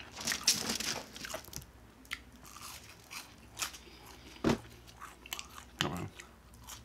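Close-miked chewing and crunching of fried fast food, with crisp crackly bites, a dense run about half a second in and sharp single crunches later on.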